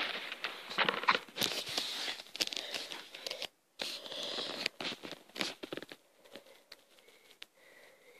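Hands rummaging through boxes and packaging: crinkling, rustling and small knocks for about six seconds, then only faint scattered handling sounds.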